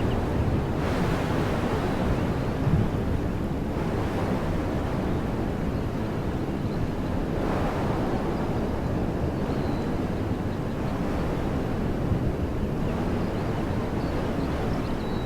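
Wind blowing through trees as a steady rushing noise, with gusts swelling about a second in and again around seven seconds in, and a low rumble of wind on the microphone underneath.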